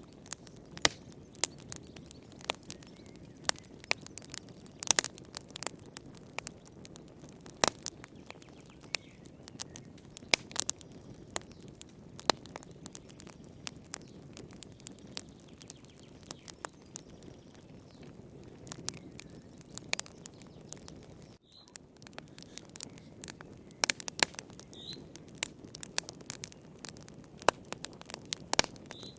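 Wood fire burning in a fireplace: irregular sharp crackles and pops over a steady low rumble of the flames. A few faint short high squeaks come in the later part.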